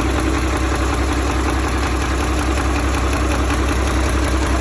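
Car engine idling steadily, with an even low pulsing.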